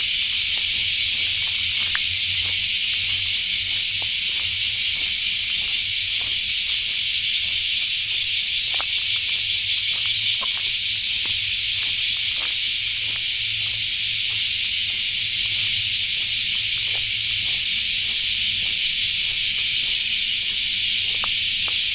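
A dense chorus of insects keeps up a steady, high-pitched shrill with a fast pulsing texture. Faint soft footsteps tick beneath it about every half second to second.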